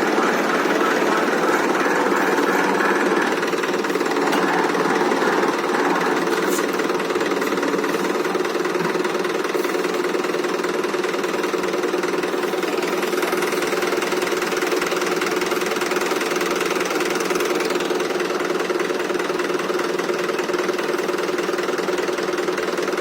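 Tractor diesel engine running steadily, powering a bore well pump-lifting machine.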